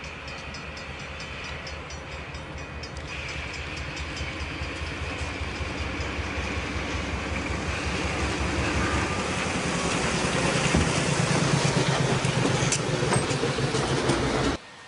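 Diesel locomotive pushing a wedge snow plow along the track, its engine and the noise of the plowing growing steadily louder as it approaches, then cutting off abruptly near the end.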